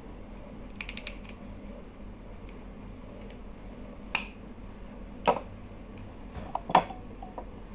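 Small hair trimmer parts being handled and taken apart: a quick rattle of light clicks about a second in, then three sharper clicks and taps, the last and loudest near the end.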